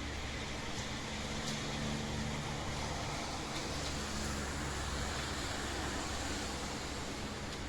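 Steady rain falling at night, an even hiss with a few faint drop ticks, over a low hum that is strongest in the first few seconds.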